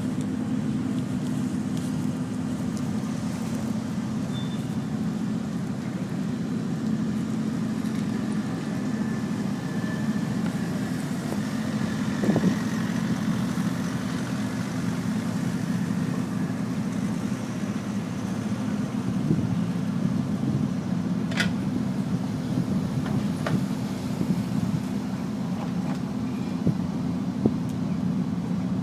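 Steady low engine drone with a few faint clicks.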